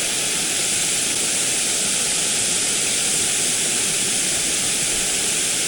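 Small creek waterfall close by: a steady, loud hiss of rushing water.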